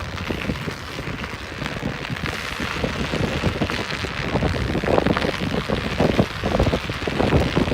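Wind buffeting the microphone over a dense crackle of studded tyres rolling on snow, slush and ice, growing louder towards the end.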